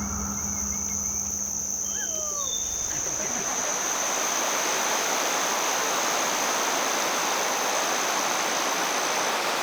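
Nature ambience: a steady high-pitched insect drone, a few short bird chirps and calls about two seconds in, then a rushing sound of water building up from about three seconds in.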